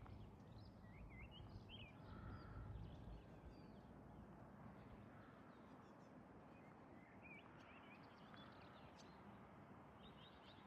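Faint bird chirps over a quiet outdoor background: short calls that swoop up and down, in a few clusters near the start, past the middle and near the end.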